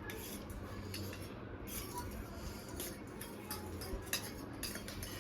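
Eating sounds: cutlery clicking and tapping against plates in a run of short, irregular clicks, over a low steady hum.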